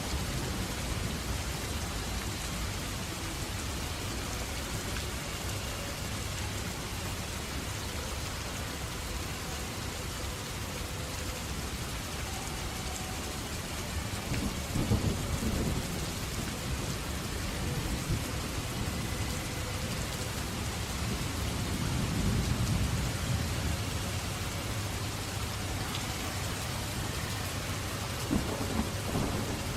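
Steady heavy rain hissing, with deep rumbles of thunder about halfway through, again a little later, and once more near the end.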